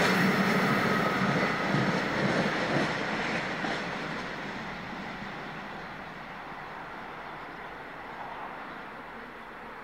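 Container freight train's wagons rolling away into the distance: wheel-on-rail rumble fading steadily, with a thin wheel squeal over the first second or two.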